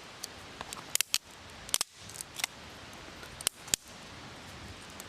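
A series of short, sharp clicks or scrapes, several coming in quick pairs.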